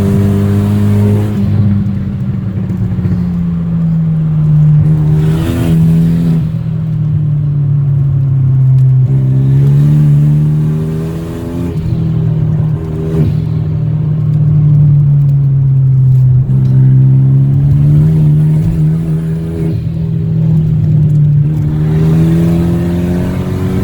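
Straight-piped Renault Megane RS 225's hybrid-turbo 2.0-litre four-cylinder engine running under way with no catalyst or silencers. The revs sag slowly and climb again, with several brief breaks where the pitch jumps, like gear changes or lifts off the throttle.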